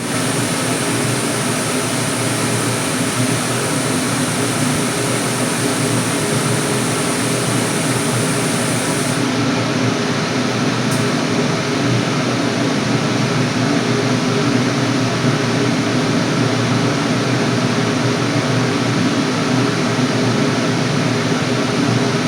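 Steam boiler's burner firing steadily, a constant low rumble of combustion and blower noise. A thin high hiss stops about nine seconds in.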